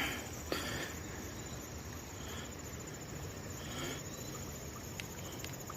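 Insects trilling steadily in the background, a high, rapidly pulsing sound, with a few faint clicks.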